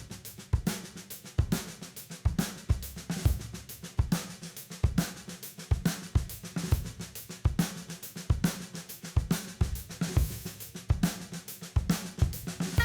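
Background music: a drum kit playing a steady groove, kick drum and snare with hi-hat and cymbals, a strong beat landing a little faster than once a second.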